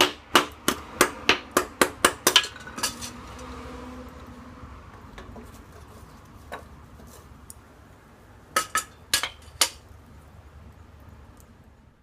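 A quick run of about ten sharp knocks or clinks in the first two and a half seconds, then five more in a burst near the end.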